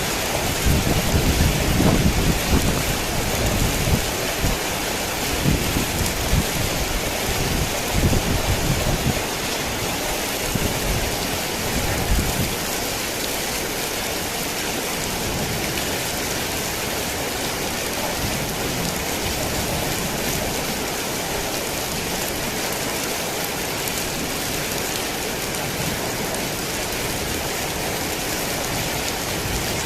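Heavy rain falling steadily, with rolling thunder rumbling underneath for about the first twelve seconds.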